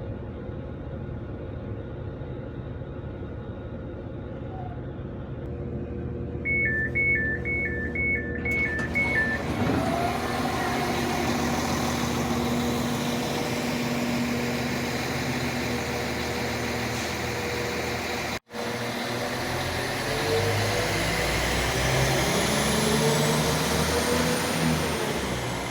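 Train door warning beeps, a quick two-tone alternation repeated about five times. Then the train moves off and runs, with a whine that rises and falls in pitch as it changes speed.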